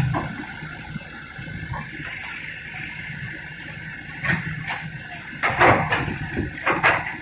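Excavator diesel engine running steadily, with several short, loud noisy bursts in the second half.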